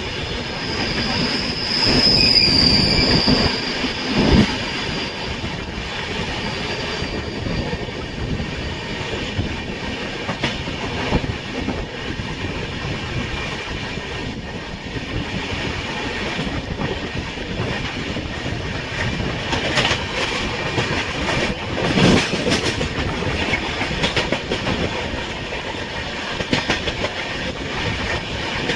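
Passenger express train running on the rails: steady rumble with wheel clatter over rail joints. A high wheel squeal sounds in the first few seconds and fades away, and there are sharp knocks a few seconds in and again past the middle.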